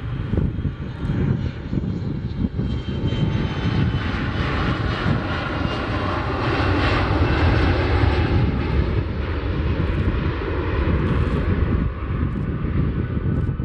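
Jet engines of a Boeing C-17 Globemaster III, four turbofans, running as the aircraft taxis. The noise grows louder toward the middle and eases off near the end.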